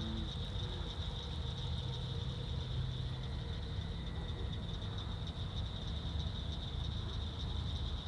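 Pond-side evening ambience: a steady high-pitched insect chorus over a constant low rumble.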